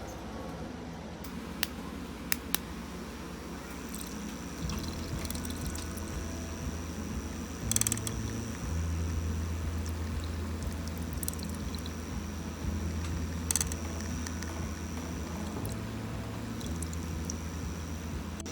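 Battery-powered electric makeup brush cleaner spinning a brush in soapy water: a low motor hum with a faint high whine, and water swishing. The hum shifts up and down several times, and there are a few sharp clicks.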